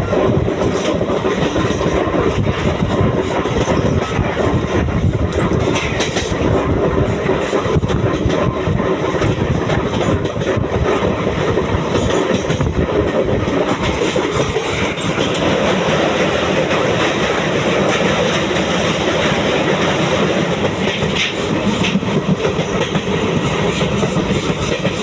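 Passenger train running along the track, its wheels clattering steadily over the rail joints with a continuous rumble, and a few brief faint high squeaks.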